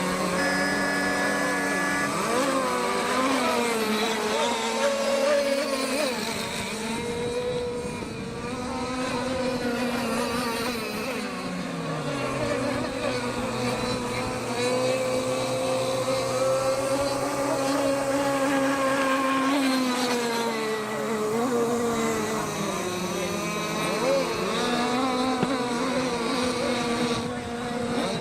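Several radio-controlled racing boats with Zenoah G260PUM two-stroke petrol engines running at speed, their engine notes rising and falling as they throttle up and down.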